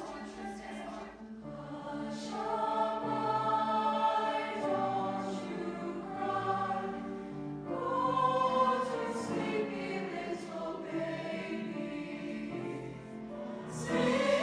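A choir singing slow, sustained chords in several parts, the phrases swelling and fading.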